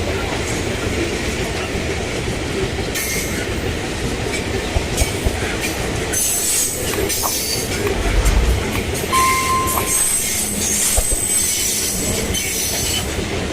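Loaded iron-ore freight train rolling past, its steel wheels rumbling on the rails, with a few knocks. Wheels squeal intermittently from about three seconds in.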